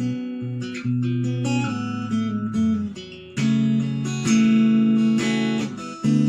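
Instrumental guitar music, with plucked and strummed acoustic guitar chords and held notes.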